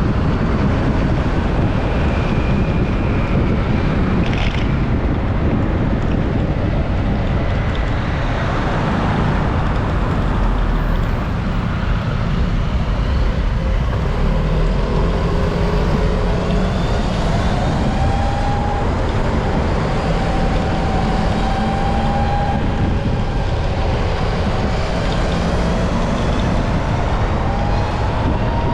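Wind buffeting the microphone and road and traffic noise during a ride, steady throughout. In the second half, a faint engine tone rises and falls.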